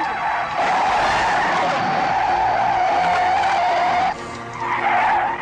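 An airliner skidding along the runway after landing, giving a long, steady tyre-squeal screech. The screech breaks off about four seconds in and starts again a moment later.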